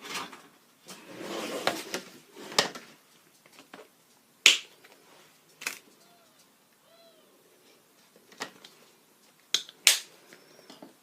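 Sharp clicks and knocks of paint supplies being handled on a tabletop, the loudest about four and a half seconds in, with a rustling scuff early on. A couple of faint squeaky tones come in around six to seven seconds in.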